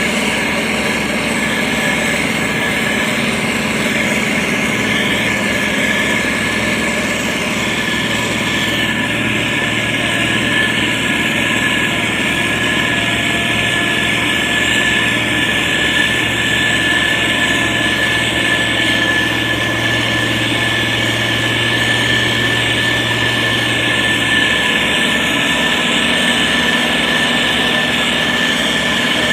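Diesel engine of heavy road-construction machinery running steadily, with a constant high whine over the engine drone.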